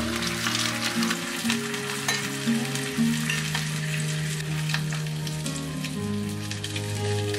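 Sea bream fillets sizzling in oil in a frying pan while saffron risotto simmers beside them, with scattered light clinks from a metal ladle stirring the rice.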